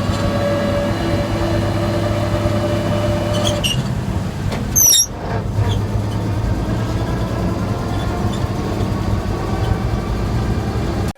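A 1947 GMC truck on a test drive, its engine running steadily. About five seconds in comes one brief, loud, high-pitched squeak.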